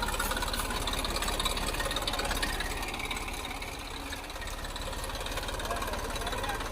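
Tractor diesel engine running steadily with a knocking chug.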